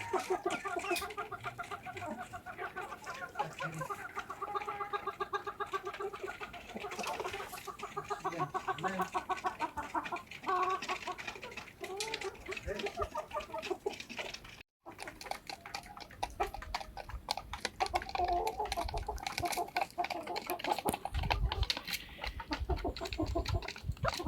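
A flock of chickens clucking, in quick pulsed calls that run on through most of the stretch. The sound cuts out for a moment just past halfway, and a low rumble joins in near the end.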